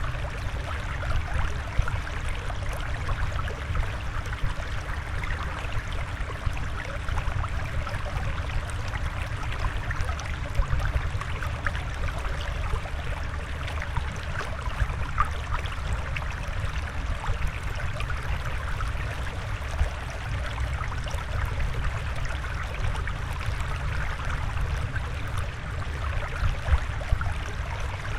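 Steady flowing water with a light trickling and gurgling over a low rumble.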